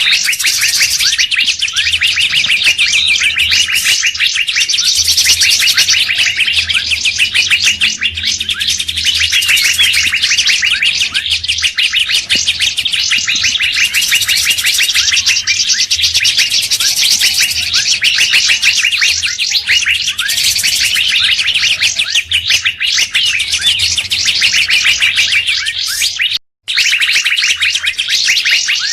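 Songbirds calling in a dense, fast, unbroken chatter of chirps and whistles, the kind of mixed call track played as a lure to draw wild birds. The sound cuts out for a split second near the end.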